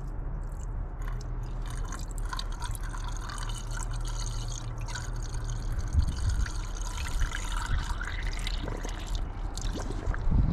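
Water pouring and trickling as the cooling system of a 2009 Ford Focus is filled, over a steady low hum.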